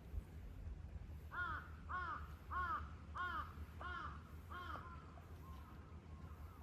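A crow cawing six times in quick, even succession, each caw a short arched call, followed by fainter calls near the end.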